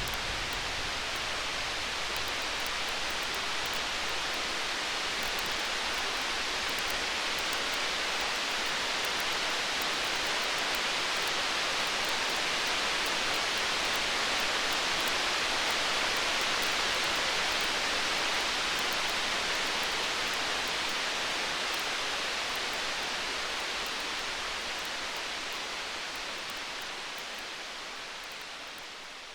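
Steady storm-night ambience: an even rain-like hiss with faint high crackles and no thunder, slowly fading out near the end.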